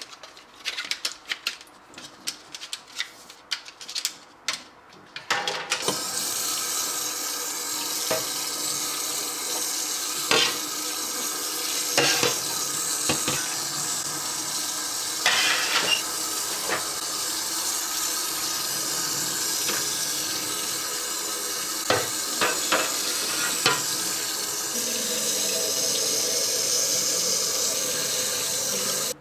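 A few seconds of clicks and knocks as fridge shelf parts are handled at the sink, then the kitchen tap comes on, about five and a half seconds in, and runs steadily as the parts are rinsed under it, with occasional knocks of the parts against the sink.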